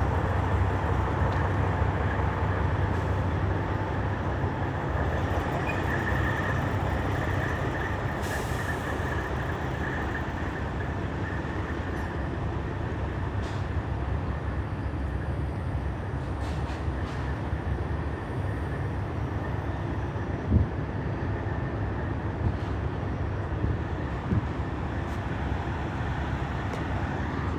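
Diesel engines of Peterbilt semi trucks running, a steady low rumble that slowly eases a little. A single short knock comes about twenty seconds in.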